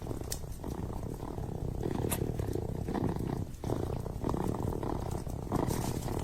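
Kitten purring close up, a continuous rhythmic purr with a short break about three and a half seconds in, over a few sharp crackles from a wood fire in a fireplace.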